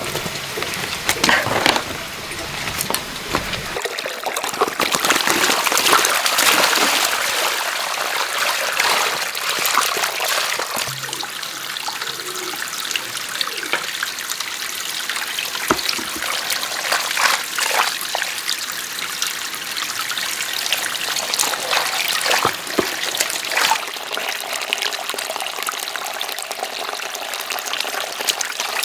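Water trickling and splashing steadily, with scattered light clicks and knocks.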